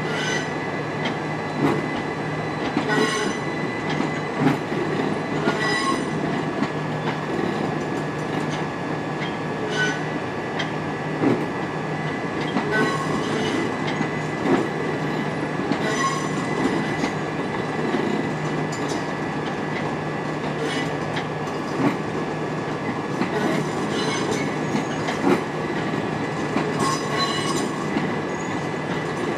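Electric multiple-unit train moving slowly along the track: a steady hum with short high wheel squeals recurring every few seconds.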